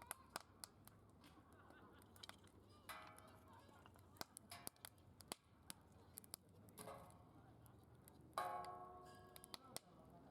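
Faint wood fire crackling in a fire pit, with sharp scattered pops. Three short honk-like pitched calls sound in the background, about three, seven and eight and a half seconds in, the last the loudest.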